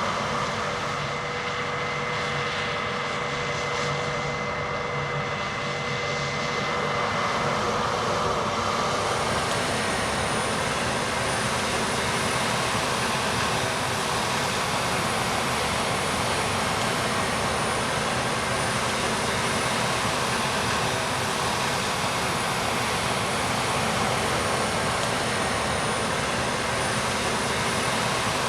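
Combine harvester working in grain, a steady dense mechanical rush of engine, threshing and fans. A faint steady tone in the first few seconds gives way to a faint high whine from about nine seconds in.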